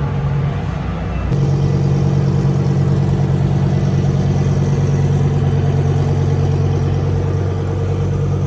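A car engine idling steadily with a low hum. It grows louder and fuller about a second in.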